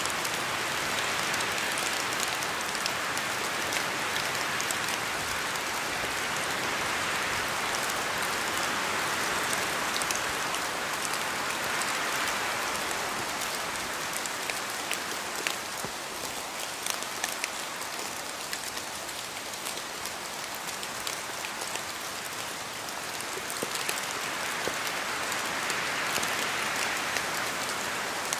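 Steady rain falling: an even hiss with many small, sharp drop ticks scattered through it. It eases slightly midway and builds again near the end.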